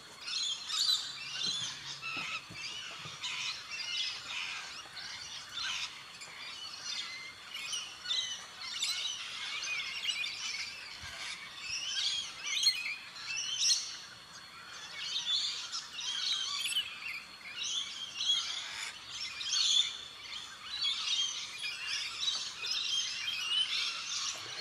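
Birds chirping and calling, a steady chorus of many short, overlapping calls.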